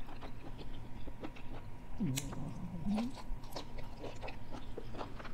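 A person chewing a mouthful of sautéed okra close to a lapel microphone: soft, wet, irregular mouth clicks. A short low hum comes about two seconds in.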